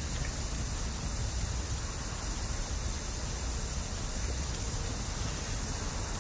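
Bamboo campfire burning with a steady rushing hiss and low rumble, and a faint pop or two.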